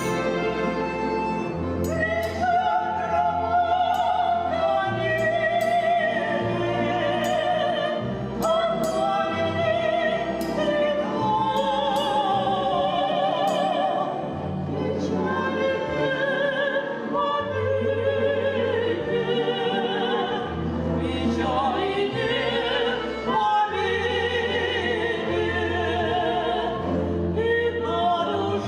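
A sung song: a voice with strong vibrato over instrumental accompaniment, with a bass line that changes note about every second.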